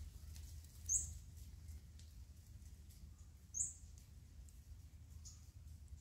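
Two short, sharp, high-pitched chirps from a small bird, about two and a half seconds apart, over a faint low rumble.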